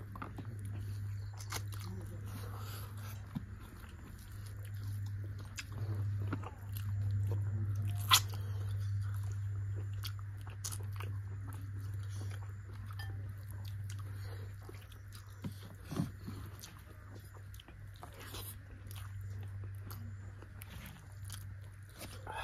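Close-up chewing and mouth sounds of two people eating chicken curry and rice with their fingers: many small wet clicks and smacks over a steady low hum, with one sharp click about eight seconds in.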